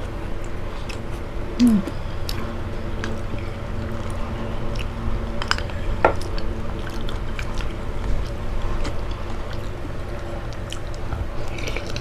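Close-miked chewing and slurping of thick lomi egg noodles and soup, with many short wet mouth clicks and smacks, over a steady low hum. A brief murmur of voice is heard about two seconds in.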